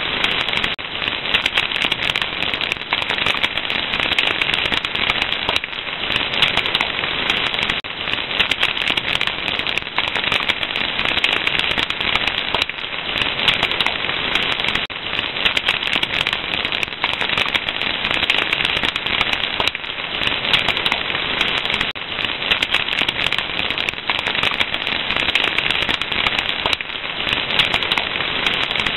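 Fire crackling steadily, with dense, constant small pops and snaps over a hiss.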